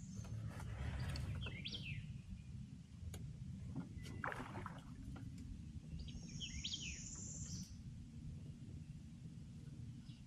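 Wild birds calling twice, each call a long high note with quick falling notes beneath it, near the start and again about six seconds in, over a steady low rumble, with a few light clicks and a brief rustle about four seconds in.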